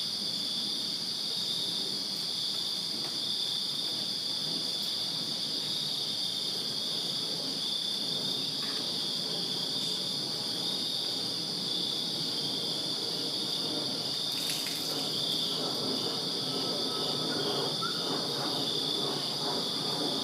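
Night crickets chirping in a steady, continuous chorus of high trills, one of them pulsing rapidly. A low rumble builds beneath them in the last few seconds.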